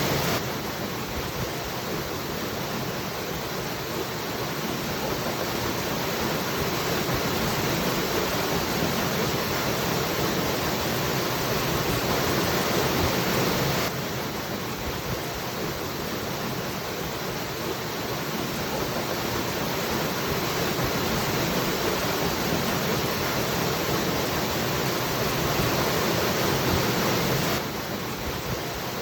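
Waterfall rushing in a steady, even hiss of falling water. The level dips suddenly three times, about every fourteen seconds, where the recording loops.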